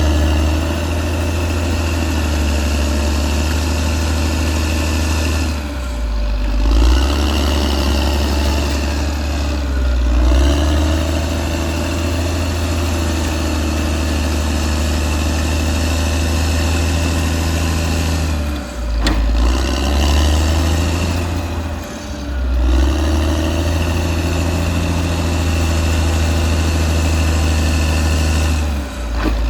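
Caterpillar D6R XL bulldozer's diesel engine running steadily under load. The engine note sags and picks up again about five times as the dozer works.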